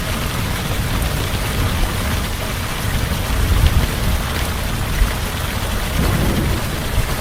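Heavy rain falling steadily, with a low rumble of thunder underneath that swells about halfway through and again near the end.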